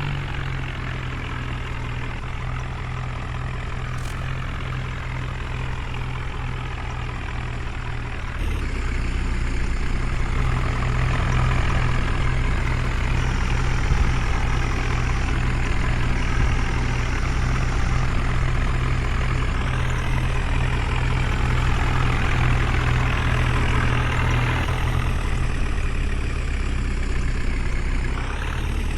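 Heavy diesel engine running steadily, getting louder about eight seconds in.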